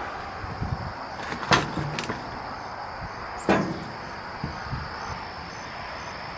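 Two sharp knocks about two seconds apart, with a few lighter ticks, over a steady background hiss.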